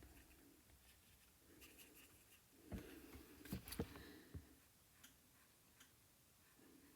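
Faint scratching of a paintbrush stroking acrylic paint onto the painting surface, with a few light knocks about three to four seconds in as brushes or tools are handled.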